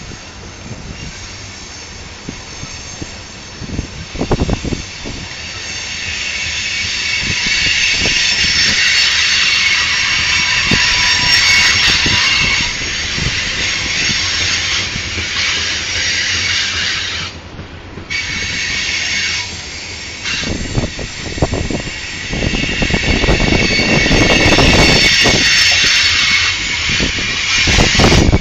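Loaded grain-train covered hopper cars rolling past on a curve, their wheels squealing against the rails in several steady high tones over a low rumble of the train. The squeal builds after a few seconds, drops out briefly about two-thirds of the way through, then comes back.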